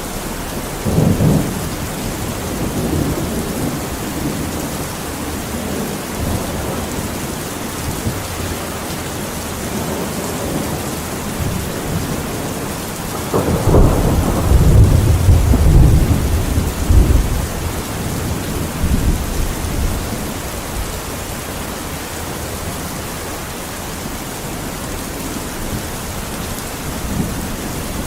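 Steady rain with rolling thunder: a short rumble about a second in, then a longer, louder rumble of thunder in the middle that dies away after a few seconds.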